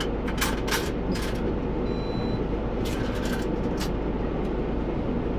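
Bus engine and road noise heard from inside the moving bus, a steady low rumble, with several short sharp clicks and one brief high beep about two seconds in.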